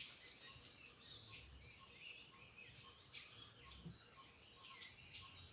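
Steady high-pitched insect chorus, with short falling chirps repeating over it.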